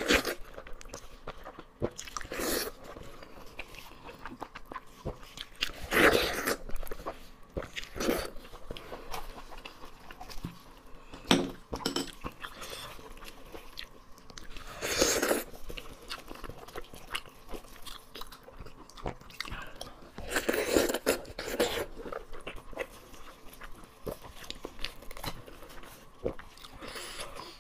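Close-miked wet chewing and biting of braised sheep's head meat, with irregular smacks and clicks of the mouth. A few louder, longer bursts come about a quarter, half and three quarters of the way through.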